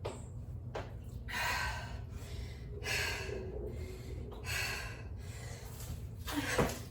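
A woman breathing hard from exertion, with a sharp, breathy exhale about every one and a half seconds as she works through bodyweight reps, over a steady low hum.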